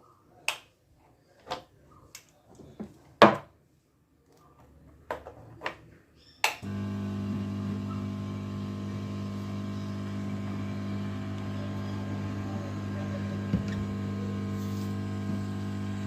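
A few sharp clicks and knocks of tools being handled, then about six and a half seconds in a hot-air rework station switches on and runs with a steady hum and blowing, heating a burnt IC on a laptop motherboard to desolder it.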